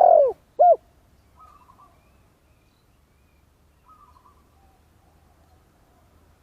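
Spotted dove cooing: the last two notes of a phrase, short arching coos, in the first second, then only faint, distant cooing for the rest.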